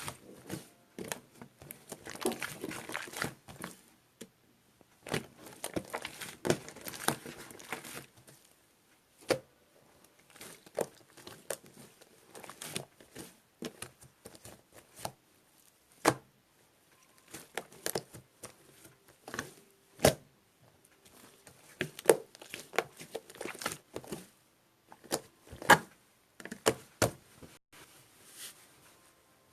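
Slime being squished and stretched by hand: irregular runs of sticky crackles and clicks, with a few louder pops.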